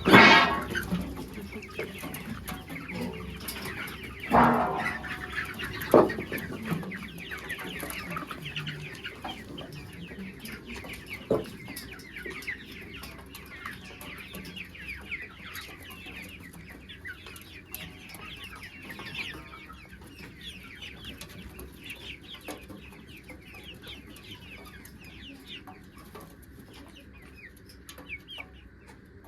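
A flock of desi chickens clucking and calling continuously. There are a few louder sudden sounds in the first several seconds, and the calling grows quieter toward the end.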